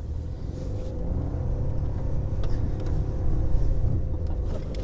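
Jeep Liberty driving in first gear through deep snow: the engine pulls steadily under load, heard as a continuous low rumble with a tone held at one pitch.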